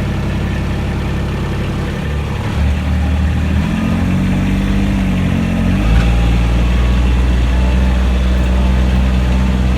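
Kubota tractor's diesel engine running under load, its note shifting for a few seconds and then settling into a louder, steady drone about six seconds in.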